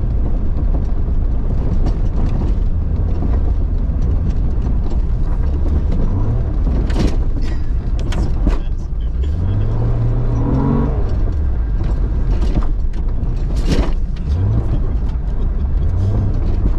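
Jeep Cherokee XJ engine pulling off-road through snow under a constant heavy rumble, revving up several times, with three sharp knocks along the way.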